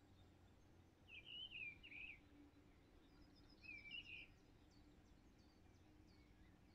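Faint songbird song in the open: two short warbling phrases, one about a second in and another near four seconds, over quiet outdoor background.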